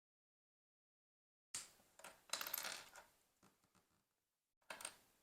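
Small plastic LEGO pieces clattering and clicking together. A rattling burst comes about a second and a half in, then a few light clicks, then another short rattle near the end.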